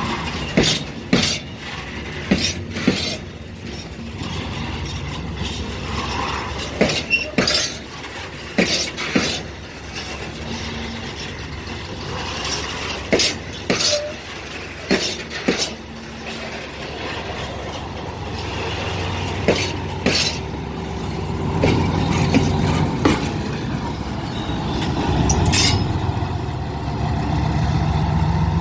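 Diesel rail vehicle rolling slowly over rail joints: the wheels click in pairs, one pair every couple of seconds as each bogie's axles cross a joint. Its diesel engine hum grows louder over the last ten seconds or so.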